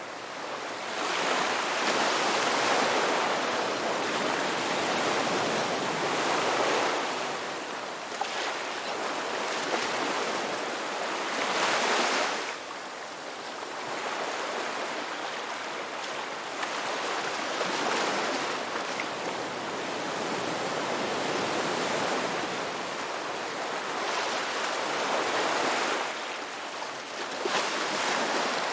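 Ocean waves breaking and washing on a rocky beach, a continuous surf hiss that swells every few seconds as each wave comes in.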